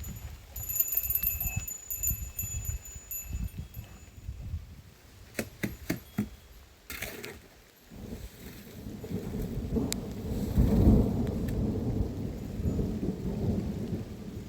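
Thunder rolling in a rainstorm: a deep rumble that builds to its loudest about ten to eleven seconds in and keeps rolling, over the hiss of rain. A few sharp taps come around six seconds in.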